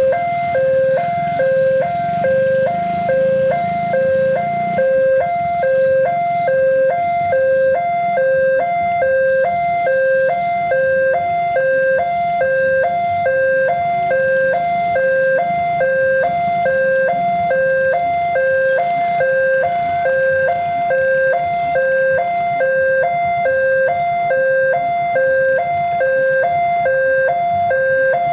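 Railway level-crossing warning alarm sounding: an electronic two-note signal alternating evenly and without break between a lower and a higher tone, warning that a train is approaching.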